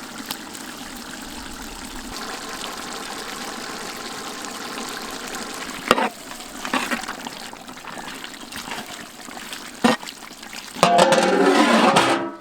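Pot of chicken broccoli curry bubbling steadily as it finishes cooking, with two sharp knocks about six and ten seconds in. Near the end a louder pitched sound cuts in for about a second.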